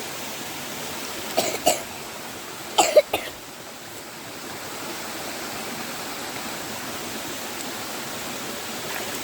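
Steady hiss of rain falling in the forest, broken twice by a pair of short, sharp sounds about one and a half and three seconds in.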